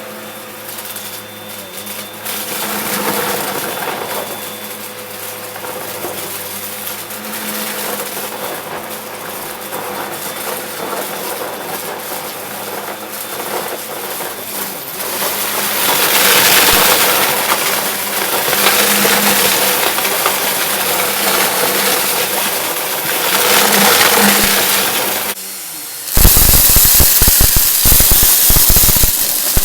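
Vacuum cleaner running with a steady motor hum while sucking up confetti, the crunching and crackling rising and falling; its intake is clogged. Near the end the hum drops away and a louder rushing, crackling noise takes over.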